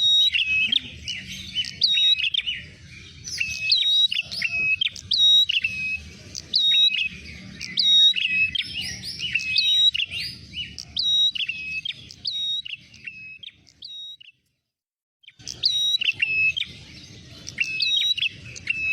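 Prenjak merah calling rapidly and continuously: sharp, high chirps that rise and drop quickly, repeated several times a second, over a low rumble. The calls cut out completely for about a second near the middle and then resume.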